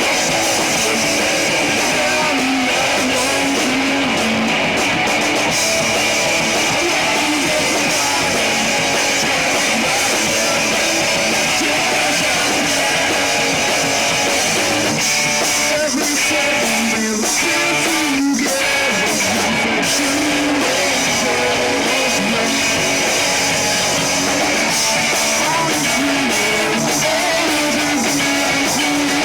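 A rock band playing a song live, loud and steady, led by electric guitar.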